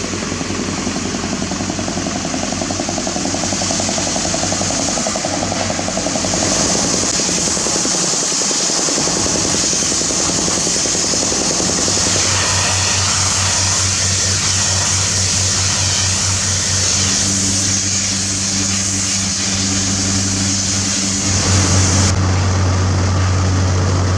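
Diesel engines of heavy asphalt-paving machinery running steadily, with a constant hiss over them. The engine tone shifts a few times, about seven, twelve and twenty-one seconds in.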